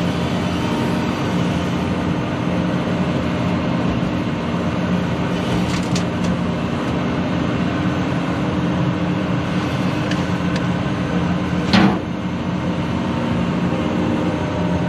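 CAT 340 excavator's diesel engine idling steadily, with a single loud clunk near the end and a few faint ticks.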